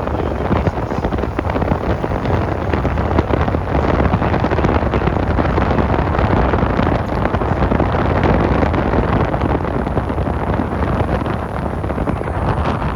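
Wind buffeting the microphone over a car's steady road noise while driving.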